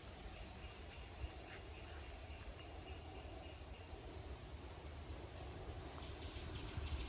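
Forest ambience: a steady high whine with repeated chirping animal calls over a low steady rumble. A measured chirp repeats for the first few seconds, and a faster pulsing trill starts near the end.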